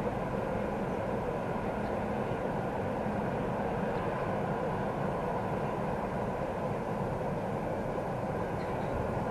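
Freight train hauled by a VL10U electric locomotive rolling past: a steady rumble of wagon wheels on the rails.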